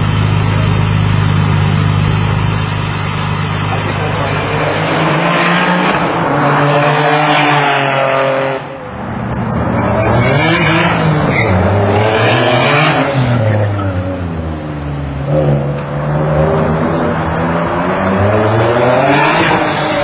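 Twin-turbocharged Nissan 350Z's VQ35DE V6 running steadily, then revving up hard in several rising pulls, with a brief drop in sound after the first pull and the pitch falling back between pulls, at about 6 psi of boost.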